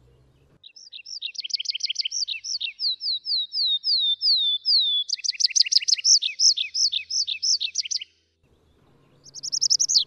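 A small songbird singing a fast, high trill of quickly repeated down-slurred notes in two long phrases, stopping about eight seconds in.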